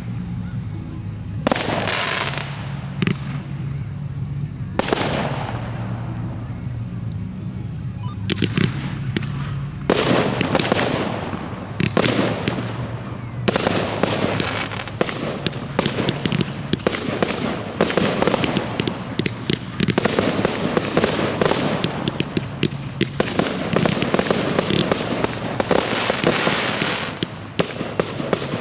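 Professional fireworks display: shells bursting with sharp bangs and long stretches of dense crackling. It becomes much busier and more continuous about a third of the way in.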